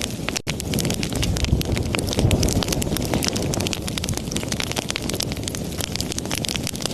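Wood fire crackling in a fireplace: many quick, irregular snaps and pops over a steady low rumble of burning. There is a momentary break in the sound about half a second in.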